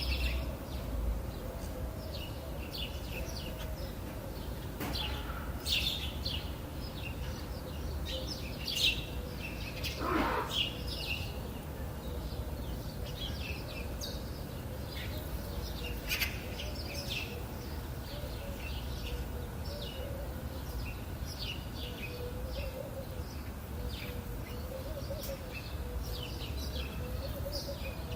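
Many songbirds chirping and twittering, short high calls overlapping throughout, over a steady low background rumble.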